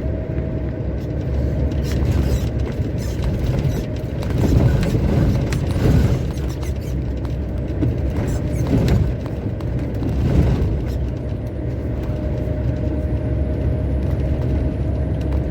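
Heavy truck driving, heard inside the cab: a steady engine drone with road noise, and several louder rumbling surges in the middle as the truck runs over rough asphalt.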